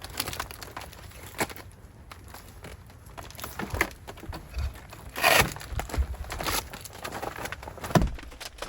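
Scattered handling noises: light knocks and clicks with rustling, and a louder rustle about five seconds in.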